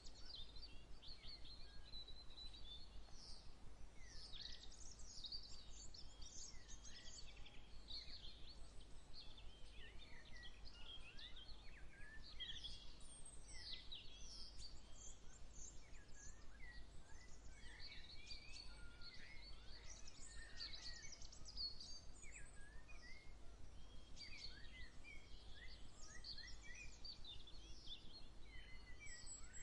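A chorus of songbirds chirping and singing, many short overlapping calls throughout.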